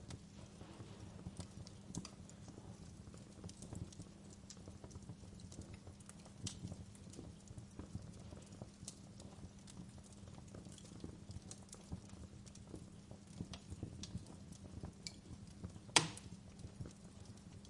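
Wood fire crackling, with faint irregular snaps and pops and one sharper, louder pop near the end.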